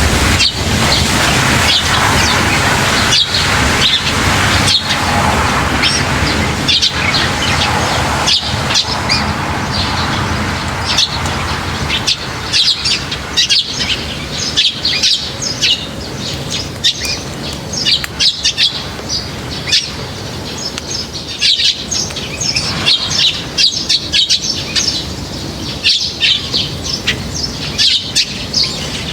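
Many small birds chirping constantly, short high calls overlapping one another. For about the first dozen seconds a low, steady noise runs underneath, then it fades, leaving the chirps clearer.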